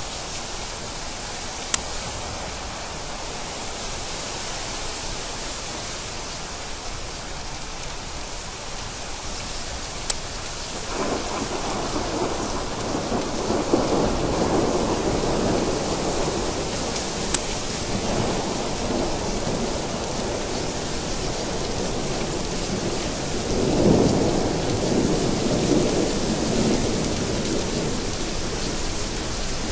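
Steady rain falling, with rolling thunder that builds about ten seconds in and swells again a little past two thirds of the way through. A few sharp ticks stand out briefly over the rain.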